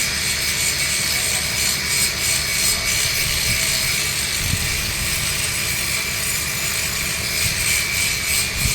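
Arc welding on a 3-inch schedule 80 steel pipe, the arc hissing steadily. A thin steady high tone and a low rumble run under it.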